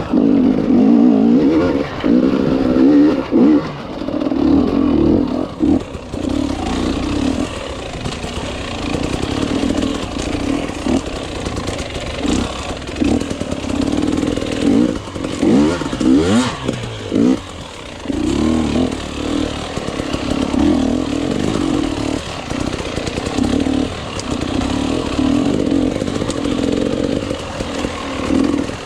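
Enduro motorcycle engine under hard riding, its revs rising and falling constantly with throttle and gear changes.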